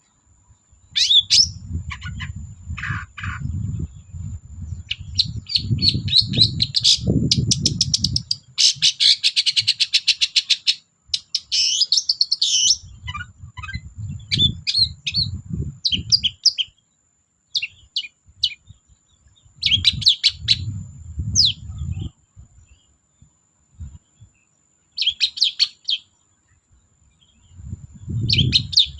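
Long-tailed shrike (cendet) in full song: varied bursts of chattering phrases and fast rattling trills, with short pauses between them. A low rumbling noise comes and goes underneath, and a faint steady high whine runs throughout.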